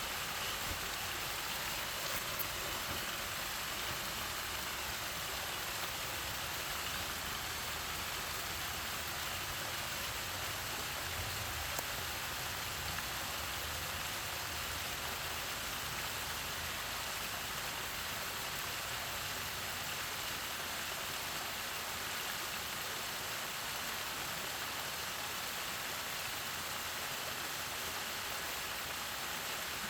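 Artificial waterfall: water falling and splashing in a steady, even rush.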